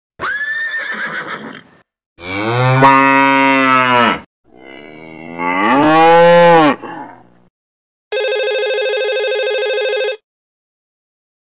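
A cow mooing twice, each moo about two seconds long, after a shorter call near the start. Near the end, a steady electronic ringing tone sounds for about two seconds and cuts off abruptly.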